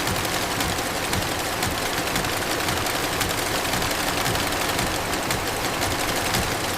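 Industrial machinery running steadily with a dense, rapid clatter of fine ticks.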